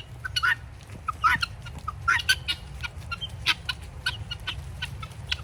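A flock of guinea fowl calling with short, sharp, rapidly repeated chirps, several notes a second, over a steady low rumble.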